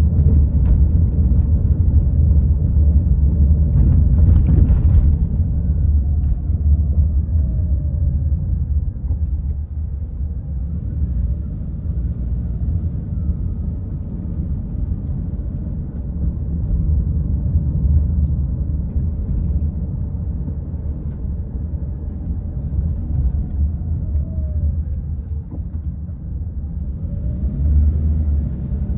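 A car heard from the inside while driving, a steady low rumble of road and engine noise, with a short rise of hiss about four seconds in.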